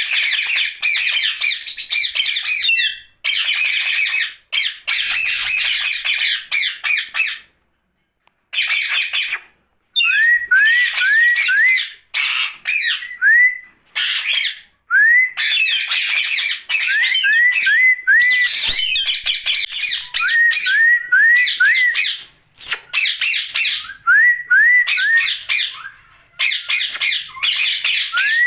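Indian ringneck parakeet squawking and chattering in loud bursts with short pauses between, mixed with runs of three or four quick rising chirps.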